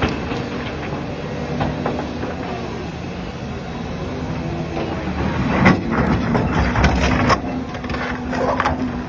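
Caterpillar D9 bulldozer running, a steady heavy diesel hum with a cluster of sharp metallic clanks in the second half.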